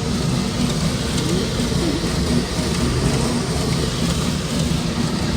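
Automatic car wash heard from inside the car: water spraying and beating on the bodywork over the running wash machinery, a loud steady rush.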